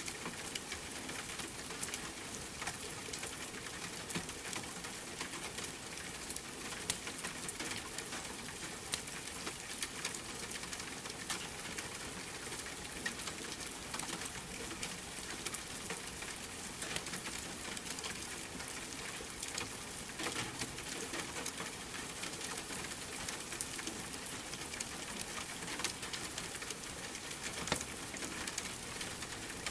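Steady rain with a crackling fireplace: an even hiss dotted with frequent small pops and ticks.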